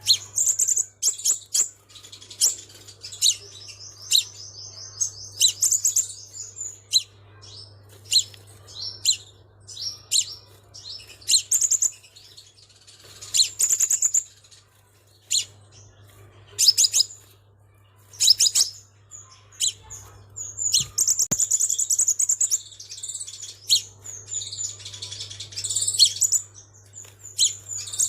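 Crimson sunbird singing: high-pitched chirps and rapid trills in repeated bursts with short pauses, the kind of song used as a lure call.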